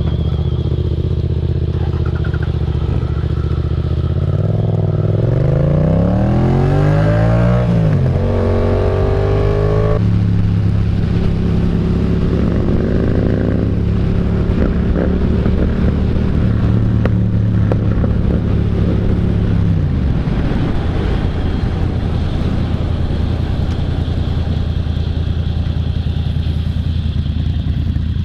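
Motorcycle engine running under way. Its pitch climbs as it revs up through the gears about five to eight seconds in, with gear changes near eight and ten seconds. It then holds a steady note and drops to a lower steady note about twenty seconds in.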